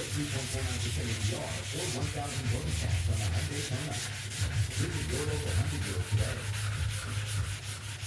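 Hand wet sanding with 120-grit wet sandpaper on a sanding block against a boat's primed fiberglass hull: quick back-and-forth scratchy strokes, one after another, over a steady low hum.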